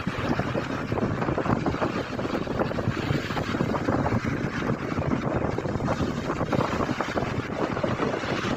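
Wind buffeting the microphone in a continuous, fluctuating rumble, over the wash of sea surf on a pebble beach.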